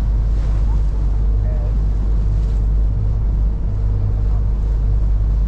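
River ferry's engine running steadily underway: a deep, even rumble with a steady hum above it, and faint voices in the background.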